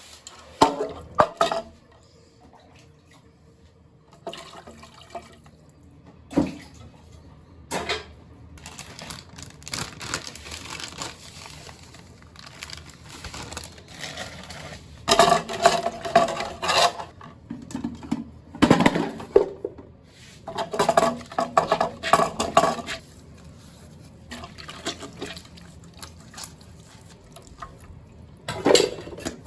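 Kitchen work with water: liquid being poured and splashing in separate bursts, with clinks and knocks of dishes and pots.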